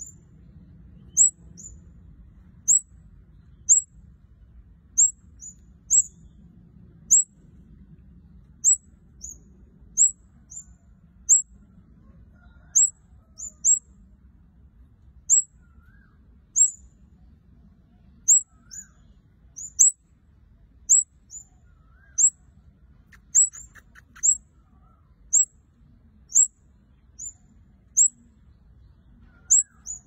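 A caged red-headed kemade calling steadily: sharp, very high single chirps that drop quickly in pitch, about one a second, many followed by a fainter echoing note. A brief dry rattle sounds about three-quarters of the way through.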